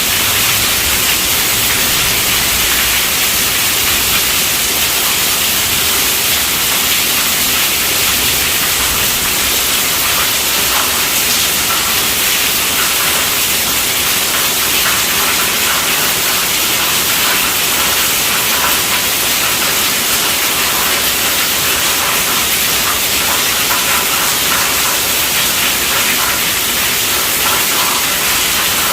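Heavy rain falling steadily on a tent roof, a dense even hiss. A low rumble dies away in the first few seconds.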